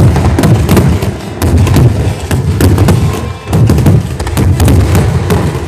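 Fireworks going off in a rapid, dense barrage: many overlapping bangs and crackles, several a second, with heavy low booms and no pause between them.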